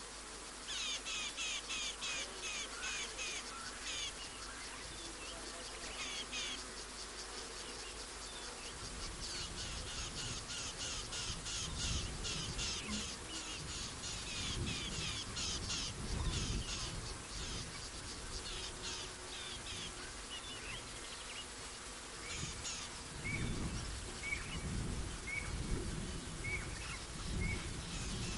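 Wild birds calling: fast chattering series of high calls in bursts, giving way near the end to short single chirps about once a second, over an uneven low rumble that starts about nine seconds in.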